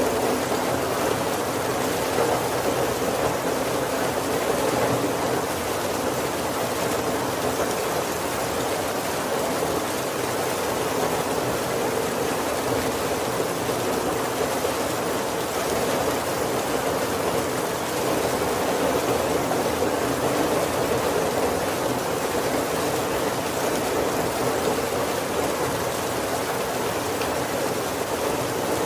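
Heavy rain falling steadily on a roof, an even unbroken hiss with no thunder.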